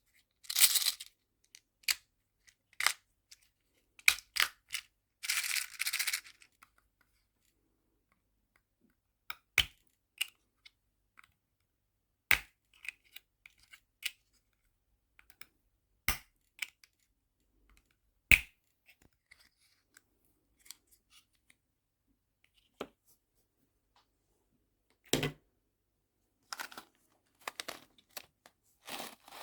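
Small sharp clicks and taps of tiny nail charms and small plastic storage boxes being handled, spaced out with quiet pauses between them. A few short bursts of crinkly rustling, like a small plastic bag, come near the start, a few seconds in, and again near the end.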